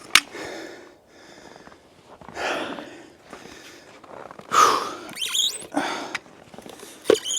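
A person breathing hard and sniffing in the cold, several breaths about a second or more apart, the loudest about four and a half seconds in, followed by a short high squeak.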